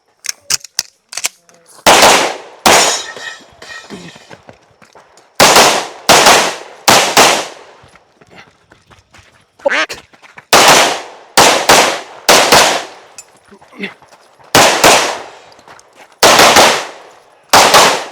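Gunshots from a shooter running a timed USPSA practical-shooting stage: about fifteen loud shots, mostly in quick pairs with short pauses between the pairs. A few light clicks come in the first second.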